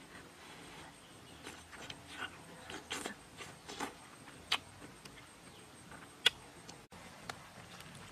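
Close-up eating sounds of someone biting and chewing grilled fish: scattered wet clicks and mouth smacks, with one sharp click about six seconds in.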